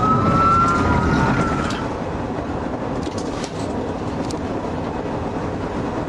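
A police siren wailing, its sweeping tone ending about two seconds in, over the steady road and engine noise of a car moving at speed.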